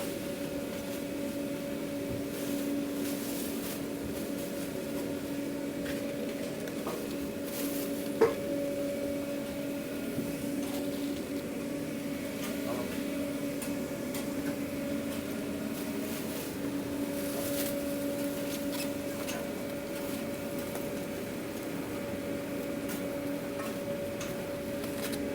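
Takeout food being packed into containers, with light clicks and handling noises and one sharp knock about 8 seconds in, over a steady hum of kitchen equipment.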